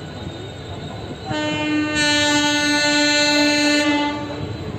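Locomotive horn sounding one long, steady blast of about three seconds, over the low noise of the train.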